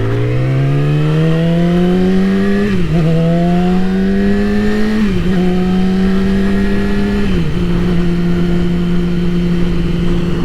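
Yamaha R6 sport bike's inline-four engine pulling away under acceleration, its pitch climbing and dropping with three quick upshifts, then holding steady at cruising speed. Wind rushes over the bike-mounted microphone throughout.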